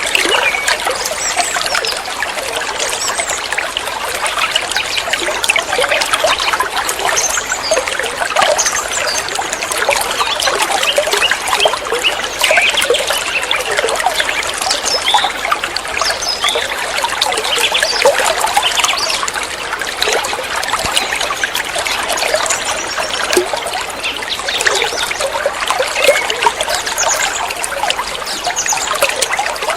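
Water trickling and splashing steadily, a dense, unbroken patter of many small drops and ripples.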